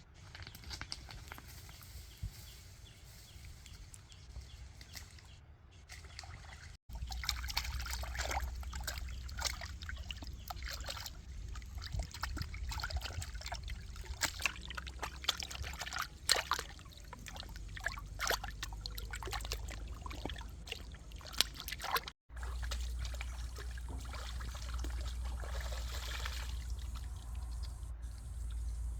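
Water trickling and splashing, with many small irregular splashes over a steady low rumble.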